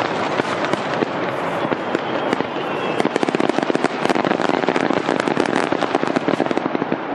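Fireworks going off in a rapid, continuous crackle of sharp pops, packed most densely in the middle stretch.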